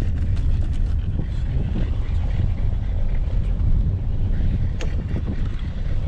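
Hyundai Santa Fe driving up a rough mountain road: a steady low rumble of engine and road noise, with a few light clicks and knocks.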